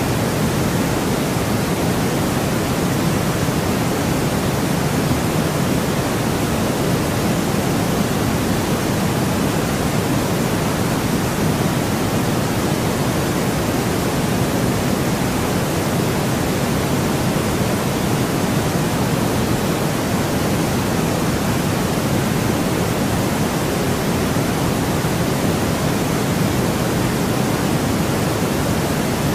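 Steady white noise for sleep: a constant, unchanging hiss with its weight toward the lower range, without any breaks or events.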